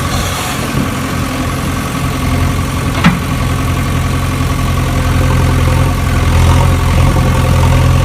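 An engine idling steadily, with one brief sharp click about three seconds in.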